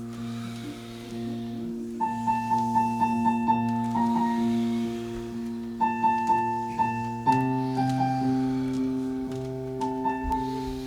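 Piano or keyboard music: held chords under repeated higher notes in short runs, changing to a new chord about seven seconds in.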